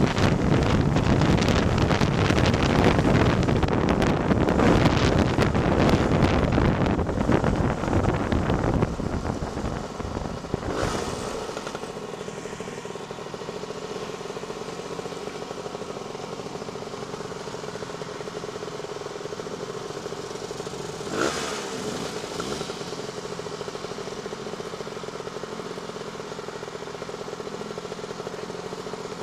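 Two-stroke Lambretta scooter engine running with heavy wind noise while riding, easing about ten seconds in to a quieter, steady engine note. Two brief whooshes come about eleven and twenty-one seconds in.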